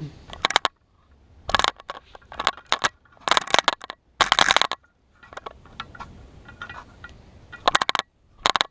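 Repeated short bursts of compressed-air hiss forced through a 2004 Honda CRF250R cylinder head's port, with crackling clicks between them: fluid bubbling past an exhaust valve that is not sealing.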